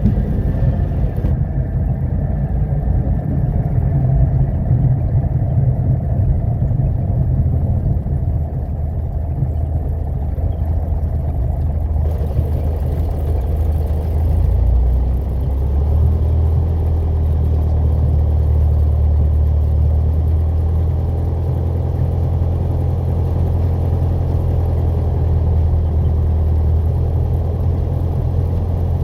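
Piper PA-28 light aircraft's piston engine running steadily, heard loud and low, with its drone shifting in pitch about halfway through.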